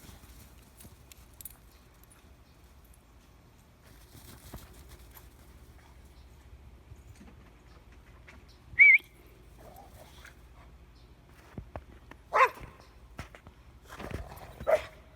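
A dog gives a short, high-pitched whine about nine seconds in, then two short barks near the end.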